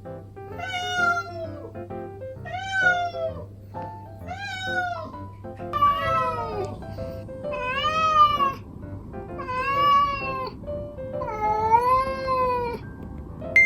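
A cat meowing over and over, seven drawn-out meows about two seconds apart, the later ones longer and rising then falling in pitch. This is night-time crying from a former stray cat newly brought indoors.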